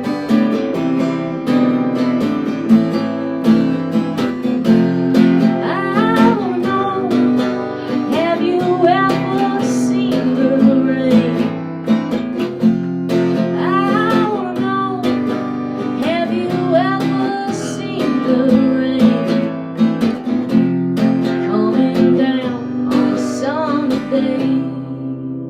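Acoustic guitar strummed in a steady rhythm, with a melody line rising and falling over the chords. The playing dies away near the end.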